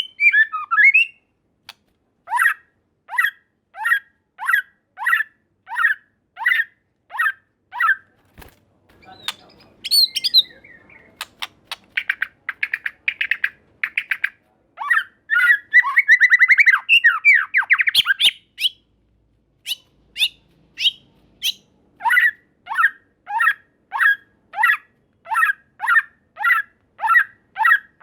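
White-rumped shama singing: a run of short downward-sweeping whistled notes, about one and a half a second, broken midway by a fast rattling series and a dense trill, after which the sweeping notes resume.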